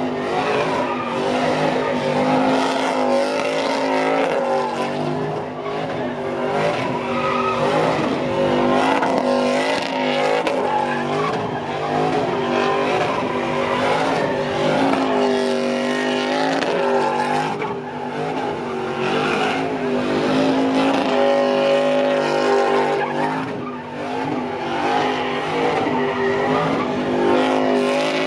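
Pickup truck engine revving hard in a burnout, its pitch rising and falling, with tires squealing and skidding.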